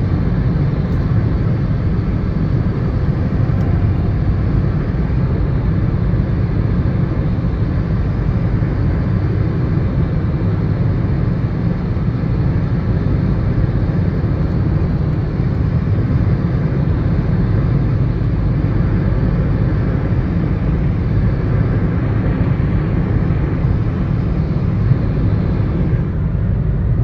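Steady, loud low rumble of a vehicle in motion, unchanging throughout and starting abruptly.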